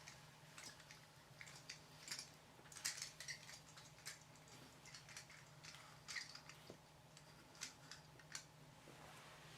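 Faint, irregular clicks and light taps of small plastic toy parts being handled, over a low steady hum.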